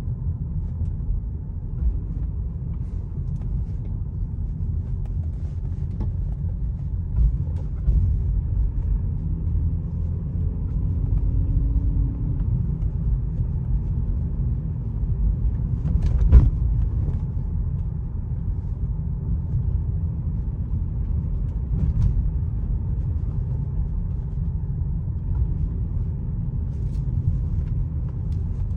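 2004 Lexus GS300 being driven: a steady low rumble of engine and road, with a few light knocks and one sharp knock a little past the middle.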